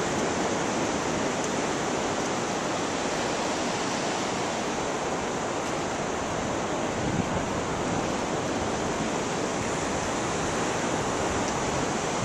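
Steady, unbroken wash of ocean surf mixed with wind.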